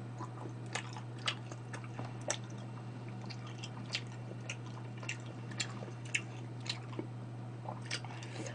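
A person chewing a mouthful of oil tteokbokki close to the microphone: irregular wet mouth clicks and smacks, about one or two a second, over a steady low hum.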